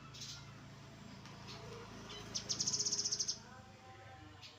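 Grey-headed canary-flycatcher calling: one rapid, high-pitched trill of fast repeated notes, lasting about a second, a little past the middle, over a steady low hum.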